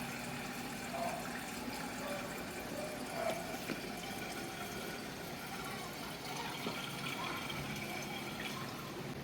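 Wash water draining steadily out of a twin-tub washing machine's tub through its drain hose, run out onto the floor.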